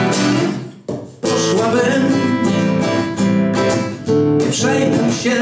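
Acoustic guitar strummed in an instrumental passage between sung verses, with a short break about a second in before the strumming picks up again.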